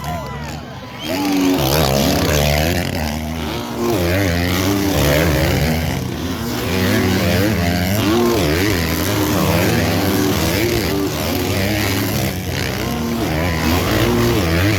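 Several motocross bikes racing, their engines revving up and dropping back over and over as the riders accelerate and back off around the track.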